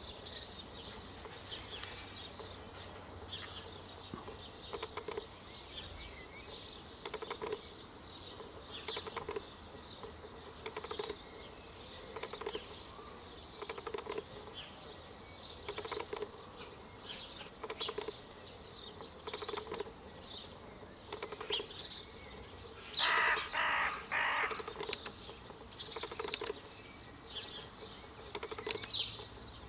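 Several birds calling and chirping, with three loud calls in quick succession about three quarters of the way through.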